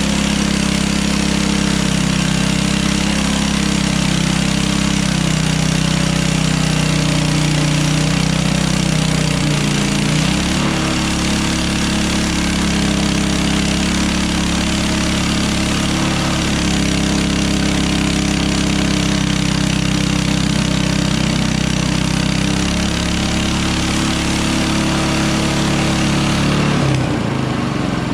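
Hudson Hunter portable bandsaw mill running steadily while sawing a log into siding, its engine note shifting slightly about ten seconds in and dropping near the end.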